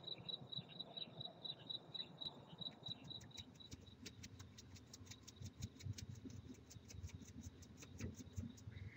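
Crickets chirping faintly: a high, even chirp repeating about four times a second, giving way about three seconds in to a faster run of dry ticks, about five a second, with faint low knocks underneath.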